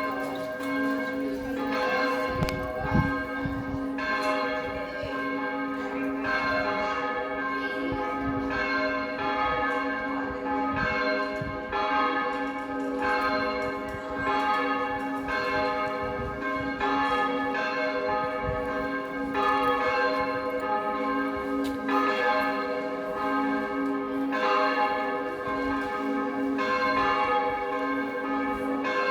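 Church bells ringing a long peal, a fresh strike about once a second over the steady hum of the bells still sounding.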